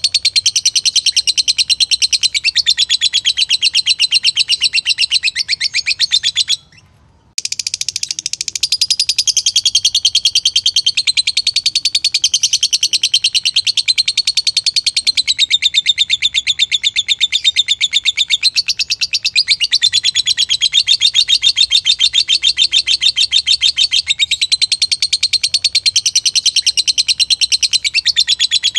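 Lovebird singing a long, rapid, unbroken high-pitched chattering trill, stopping only briefly about seven seconds in before carrying straight on.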